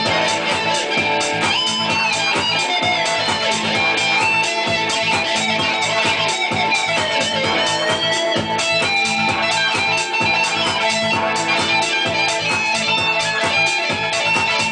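Guitar music with a steady stream of rapid, evenly picked notes.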